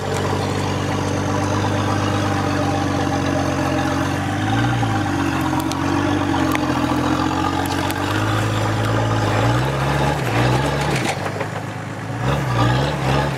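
Off-road 4x4's engine idling steadily, with a short rev about four and a half seconds in and a few quick blips near the end as the vehicle tries to work free of the tree stump it is hung up on.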